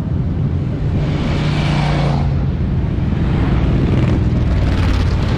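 Motorcycle engines running with a steady low engine note. A rushing noise swells up about a second and a half in, and again near the end.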